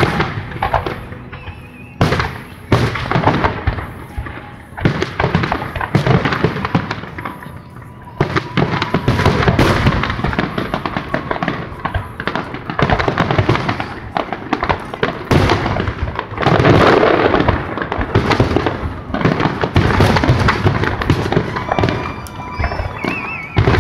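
Aerial firework shells bursting one after another, a run of booms and crackles. The bursts are spaced apart at first, then from about eight seconds in they come thick and fast in a near-continuous barrage.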